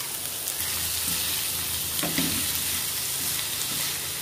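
Sliced radish, dried red chillies and onion frying in oil in a kadai on a low flame, with a steady sizzle, stirred with a wooden spatula.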